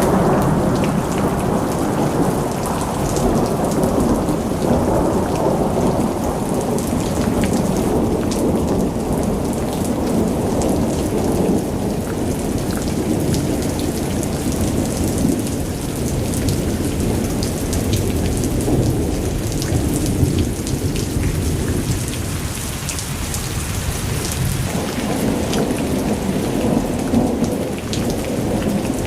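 Heavy rain pelting a car in a thunderstorm, many fine drop impacts over a continuous low rumble of thunder.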